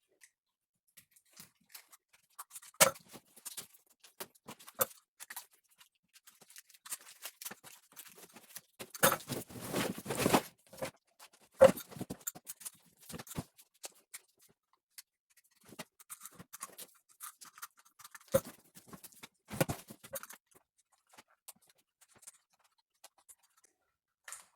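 Irregular clicks and rustling of an engine wiring harness being handled and cut apart by hand, with a denser stretch of scraping about nine to ten and a half seconds in.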